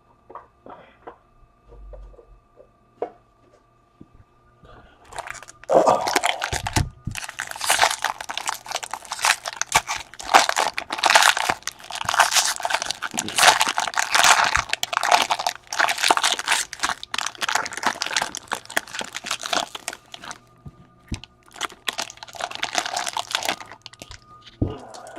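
Trading card packaging being torn open and crumpled, a dense crinkling crackle that starts about five seconds in and goes on for about fifteen seconds, with a short gap and another stretch near the end. Light taps of handling come before it.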